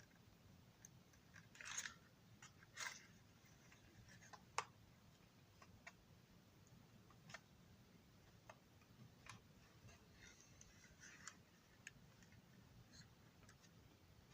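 Near silence broken by faint, scattered small clicks and short scratches of hand work on a model railroad dome car, with a sharper click about four and a half seconds in.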